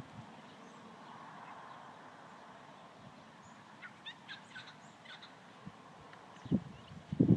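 Quiet outdoor background with a few faint, short, high bird chirps in the middle, then a couple of soft low thuds near the end.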